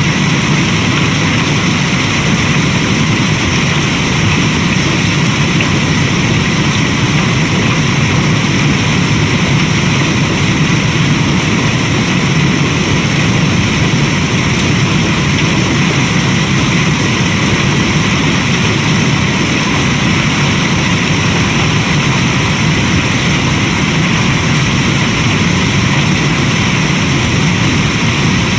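Steady rain ambience: an even, unbroken hiss with a low rumble underneath, unchanging throughout.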